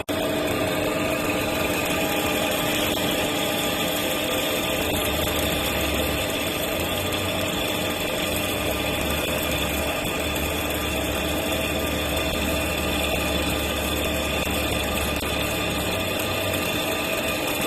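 CNC turning machine running steadily: a constant machine hum with several steady whining tones. A deeper low rumble comes in about five seconds in and drops away near the end.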